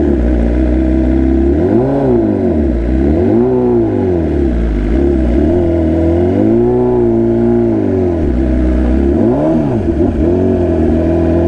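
BMW S1000RR inline-four sportbike engine under way in a low gear, repeatedly accelerating and backing off, its pitch climbing and falling about five times.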